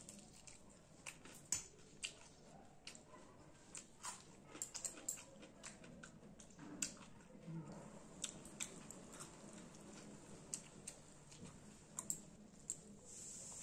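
A person chewing fried fish and rice, eaten by hand, with irregular sharp wet mouth clicks and smacks.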